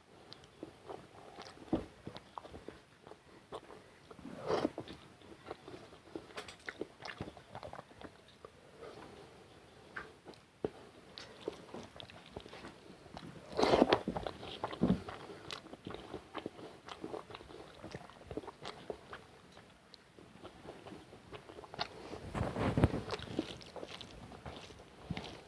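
A person eating rice with curry close to the microphone: chewing and mouth smacks with many small clicks, and louder bursts about four seconds in, about fourteen seconds in (the loudest), and again around twenty-three seconds.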